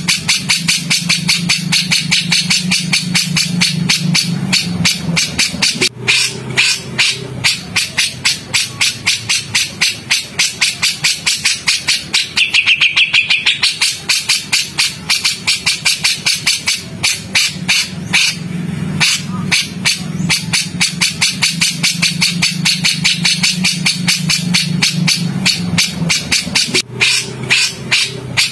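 Songbird calling in harsh, rapid-fire repeated notes, several a second, with a brief clearer whistled phrase about halfway through. This is the kind of 'rough shot' song used as a master recording to teach white-rumped shamas. A steady low hum runs underneath.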